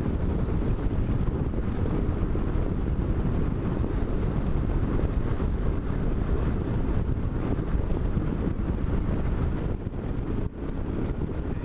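Wind buffeting the microphone as a motorcycle rolls down a steep road hill with its engine switched off: a steady rushing noise with no engine note, dropping briefly about ten seconds in.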